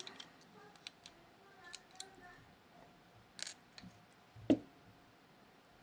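Small, sharp metallic clicks and taps from handling the pins and parts of a disassembled Miwa Kaba Star Orion dimple-lock cylinder, with a louder tap about three and a half seconds in and the loudest knock about a second later.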